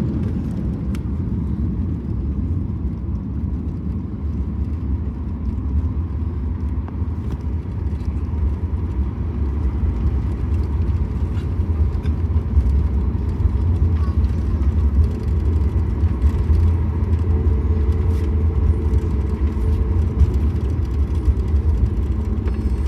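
Steady low rumble of a Boeing 737 MAX 8 heard inside the cabin around arrival, with a few light clicks and rattles.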